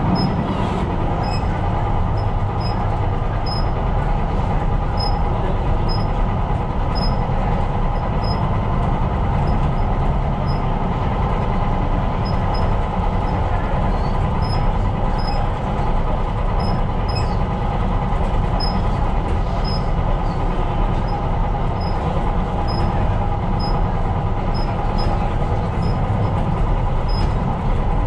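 Tyne and Wear Metro train running along the line, heard from the driver's cab: a steady rumble of wheels on rail and running gear, with a faint high tick recurring about every second.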